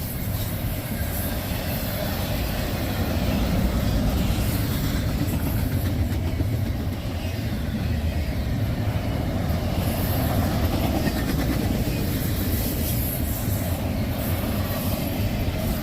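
Freight train cars rolling past at the trackside, a steady rumble.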